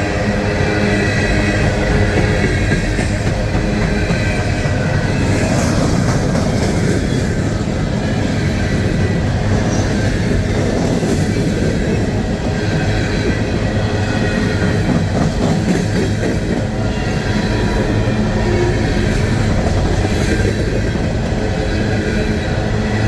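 A CSX empty coal train rolling past at close range: a long string of empty hopper cars running over the rails with continuous wheel rumble and clatter, scattered high squeals from the wheels, and a steady low hum underneath.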